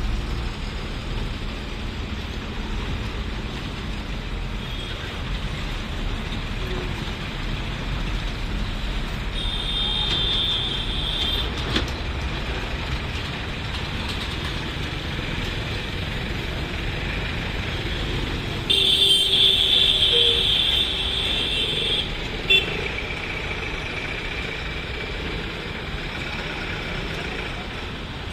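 Trucks and buses rumbling past over a level crossing, with vehicle horns honking: a horn held for about two seconds some ten seconds in, then a louder one of about three seconds, followed by a short toot.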